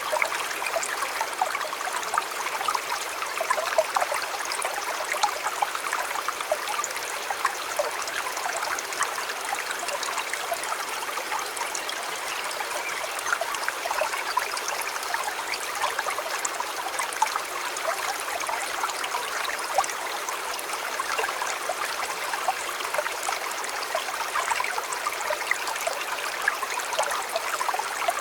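A shallow river flowing steadily over rocks, a continuous babbling rush full of small splashes and gurgles.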